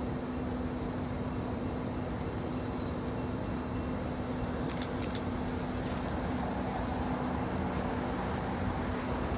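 Steady engine hum with street-traffic noise, holding one constant low tone, and a few light clicks about five seconds in.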